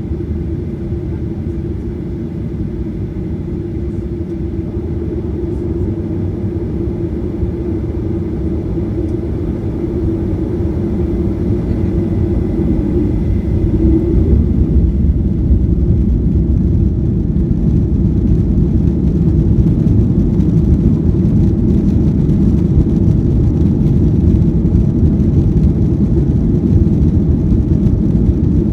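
Boeing 737-800 with CFM56-7B turbofan engines: a steady low rumble of engine and rolling noise. It grows louder through the first half, then holds.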